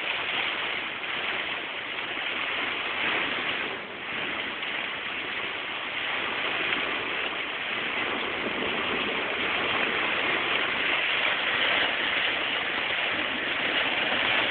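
Heavy rain and wind storm: a steady downpour that dips briefly about four seconds in and grows a little louder toward the end.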